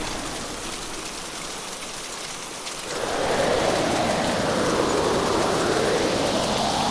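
Hurricane storm ambience of heavy rain with wind, a steady dense rush. It eases for the first few seconds, then swells back up about three seconds in.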